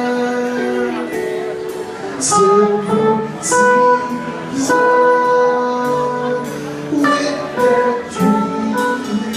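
Live rock band playing an instrumental passage: guitar and keyboard lines over bass and drums, with a cymbal hit roughly every second.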